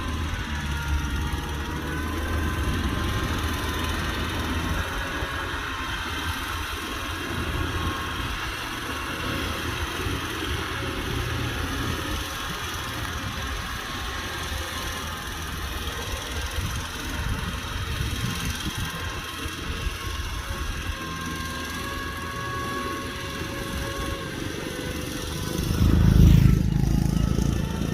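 Kubota tractor's diesel engine running steadily under plowing load, with a faint whine over it; near the end the engine note swells louder and lower for about a second and a half.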